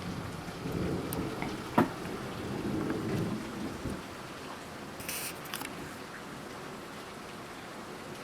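Heavy thunderstorm rain pouring steadily, with a low rumble of thunder through the first few seconds and a sharp crack about two seconds in.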